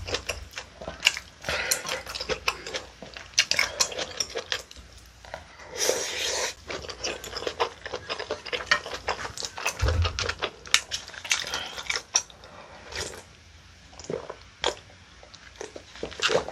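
Close-miked chewing of a mouthful of spicy webfoot octopus rice bowl: wet mouth clicks and smacks that come in spells with short pauses, quieter toward the end.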